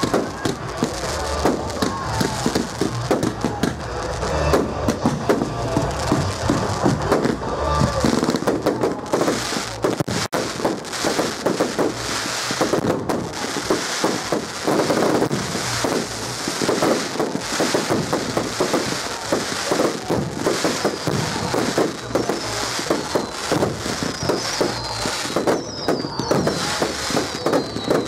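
Fireworks display going off, a dense run of bangs and crackle, with music playing along. Several short falling whistles come near the end.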